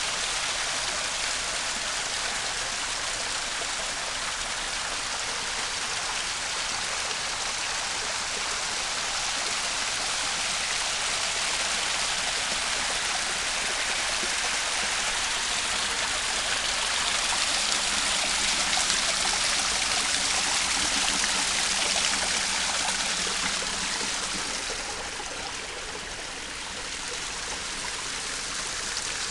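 Running water rushing steadily, swelling a little past the middle and easing briefly near the end.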